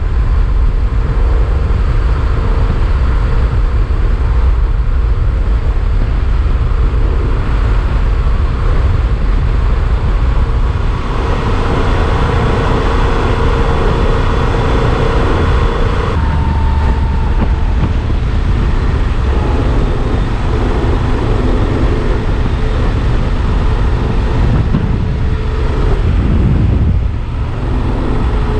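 Yamaha XT1200Z Super Ténéré parallel-twin engine running while riding at speed, with heavy wind rush on the microphone. The engine note changes about halfway through.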